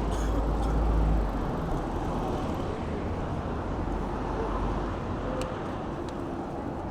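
Road traffic noise on a busy city street: a steady wash of passing vehicles, with a low rumble that is loudest about a second in and then eases off.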